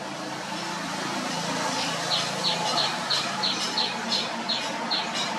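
A bird calling a rapid, regular series of short high chirps, about three a second, starting about two seconds in, over a steady low hum.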